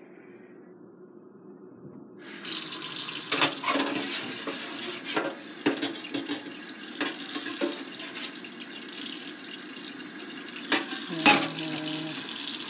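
Water running from a tap, turned on about two seconds in, with knocks and clatters of things being handled under it.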